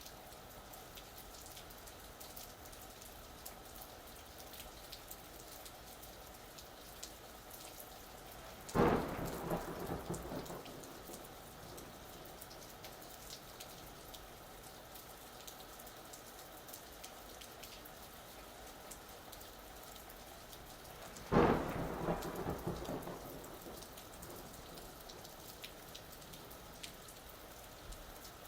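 Steady rain falling, broken by two claps of thunder, one about nine seconds in and another about twenty-one seconds in. Each starts suddenly and rumbles off over a couple of seconds.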